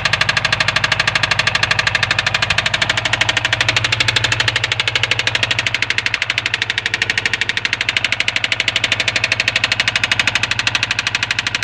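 2003 Subaru WRX turbocharged flat-four engine running at a steady speed with a rapid, even knock on every beat, the engine knocking that the title names.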